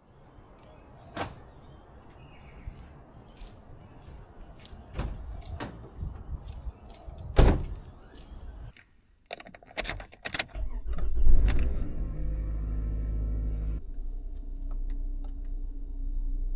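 Car sounds: a series of clicks and knocks like doors, latches and keys. About ten seconds in comes a loud burst, then a steady low hum like an engine idling.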